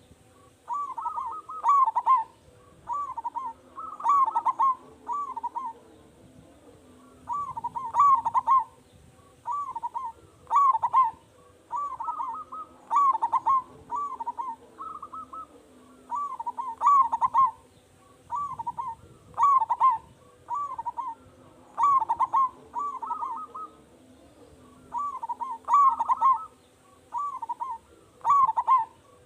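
Zebra dove (perkutut) singing its cooing song over and over. Each phrase is a short run of rolling, hooting notes, and a new phrase comes every two to three seconds.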